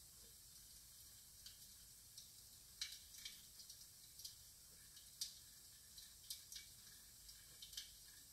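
Faint crackling of a recorded wood fire from a fireplace DVD, played through a TV's speakers: irregular sharp pops and snaps over a low hiss, the loudest pops about three and five seconds in.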